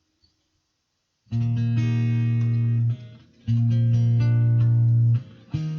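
Guitar playing the instrumental introduction to a song: after a moment of silence, a chord comes in about a second in and is left to ring, then two more held chords follow.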